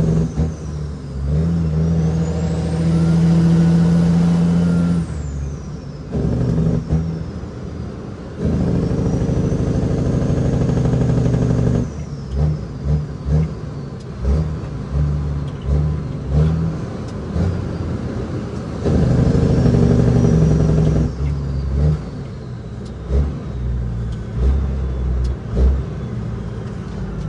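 Caterpillar 6NZ inline-six diesel in a loaded Kenworth W900L working under load, the engine note breaking off and coming back several times, as with gear changes. A high turbo whistle rises during each pull and falls away as it ends.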